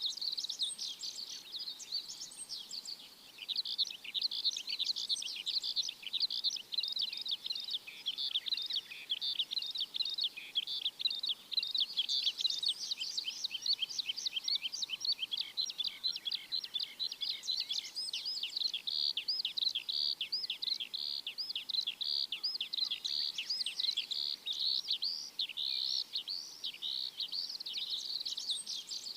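A chorus of many small birds chirping at once: a dense, unbroken stream of quick, high chirps, each sweeping down in pitch, with a brief lull about three seconds in.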